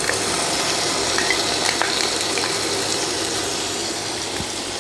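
Chopped malta orange pieces sizzling in hot oil in a frying pan: a steady frying hiss with a few faint crackles.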